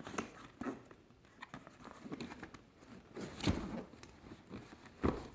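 A cardboard presentation box being handled and opened by hand: scattered rustles, scrapes and light knocks, the loudest about three and a half seconds in and again near the end.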